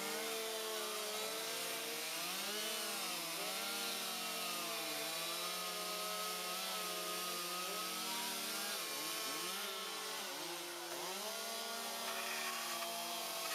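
A small engine running with its pitch repeatedly rising and falling, several tones at once.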